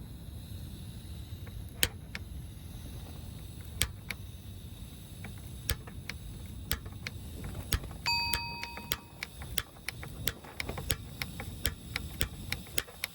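Low wind rumble on the microphone, with scattered sharp clicks and taps, and a short electronic beep about eight seconds in.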